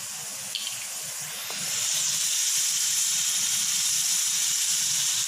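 Hot pan sizzling and hissing as vinegar is poured in over the cooking bell peppers, growing louder about a second and a half in.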